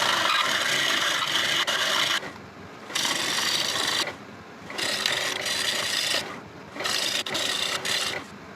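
Turning tool cutting a spinning rosewood bowl blank on a Laguna Revo 18|36 lathe: a dry, rasping scrape of the tool on hard wood in four passes, with the tool lifted off briefly three times between them.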